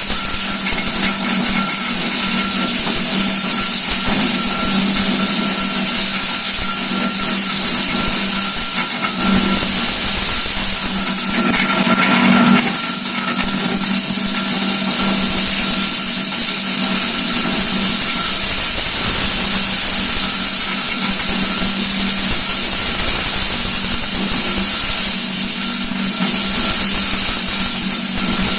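Electric-motor-driven forage chopper for livestock feed running steadily, with a constant hum and a high whine over a hiss. About twelve seconds in there is a brief louder, fuller burst.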